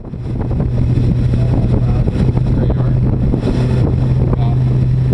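Twin 2020 Mercury Verado supercharged inline-six 400 HP outboards running steadily under way, a constant engine drone, with wind buffeting the microphone.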